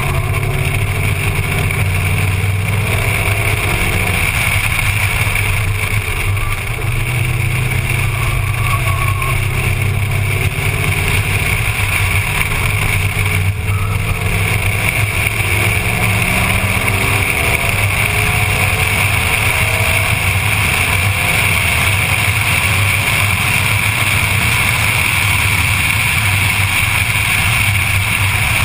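Ford Mustang's engine at full track pace, its note climbing and dropping again and again as it accelerates and shifts. Steady wind rush sounds over the camera mounted outside on the door.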